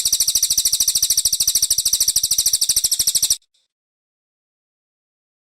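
Brown cililin singing a rapid, high trill of evenly spaced notes, about fifteen a second, that stops abruptly about three seconds in.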